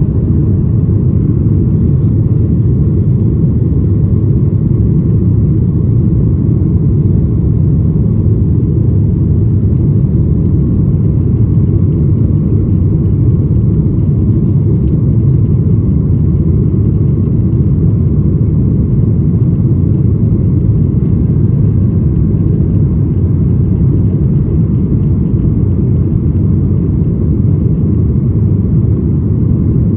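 Boeing 737-900ER cabin noise: a steady low rumble from its CFM56 jet engines and the airflow, heard from inside the passenger cabin.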